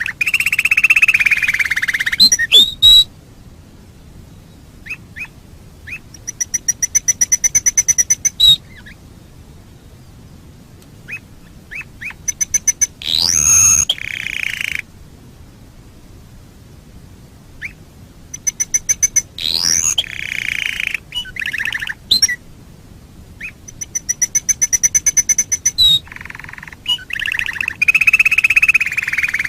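Domestic canary singing in phrases of rapid trills of repeated notes, rising whistled sweeps and buzzy rolls, with pauses of a few seconds between phrases.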